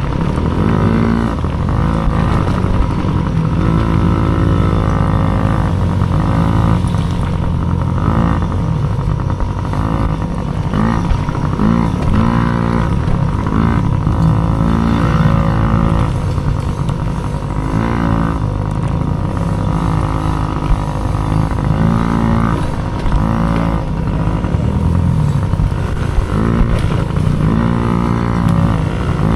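Dirt bike engine running hard, its pitch repeatedly climbing and dropping again every second or two as the throttle is worked.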